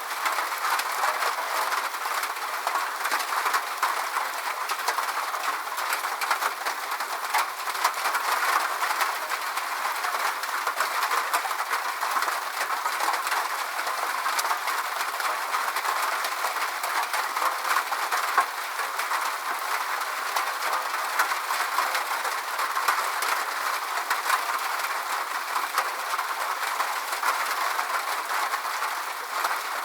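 Steady rain falling: an even hiss of rain, densely flecked with the ticks of individual drops, with no low rumble and no change in level.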